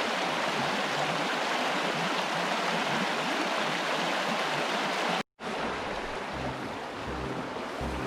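Creek water running steadily over a riffle. It cuts off abruptly about five seconds in, then resumes a little quieter.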